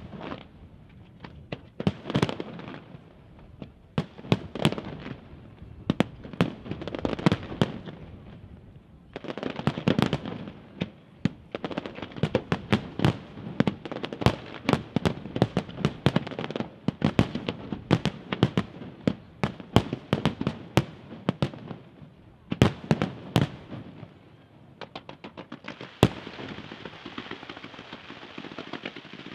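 Fireworks display: aerial shells bursting in rapid volleys of sharp bangs, coming thickest from about nine seconds in. Near the end the bangs thin out to a steady hiss with only the odd report.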